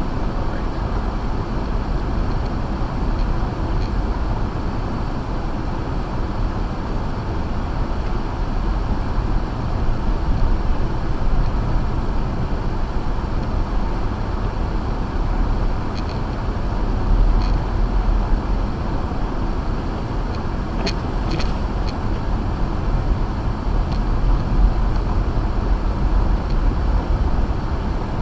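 An Acura MDX driving on a snow-covered road on Sumitomo Ice Edge winter tyres: a steady rumble of tyre, road and engine noise, heaviest in the low end. A few faint high ticks come in the second half.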